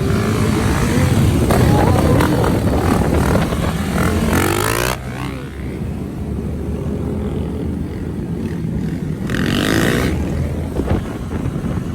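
Motorcycle engines running on a group street ride, louder for about the first five seconds and then easing off. Brief rushes of noise come about four seconds in and again near ten seconds.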